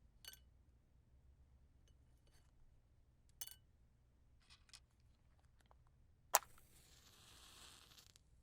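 A few light clicks and taps of wooden matches and their box being handled, then, about six seconds in, a wooden match struck sharply on the box and flaring with a hiss that dies away after under two seconds.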